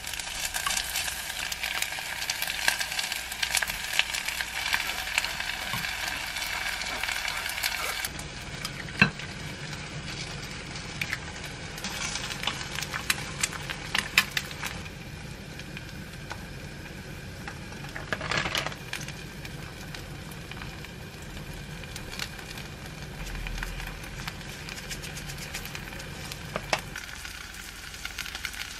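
Food sizzling in hot cookware: toppings frying in a stone bibimbap pot on a gas burner, then an egg frying in a pan. Scattered sharp clicks of utensils sound over the hiss, which is loudest in the first few seconds and quietens near the end.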